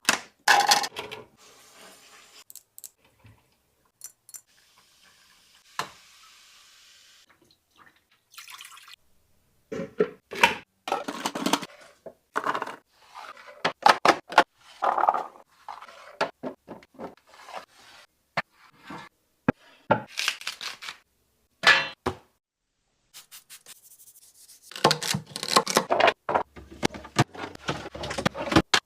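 Plastic containers, bottles and lids being handled while restocking a fridge: a run of separate clatters, clicks and knocks, with a few seconds of liquid pouring about four to seven seconds in.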